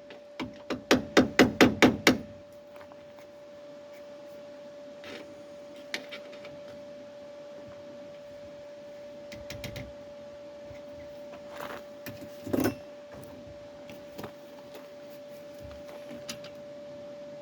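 A hammer tapping a thin steel repair patch, about five quick strikes a second, for the first two seconds. After that there is only a steady hum, with a few scattered clicks and knocks of handling, the loudest about two-thirds of the way through.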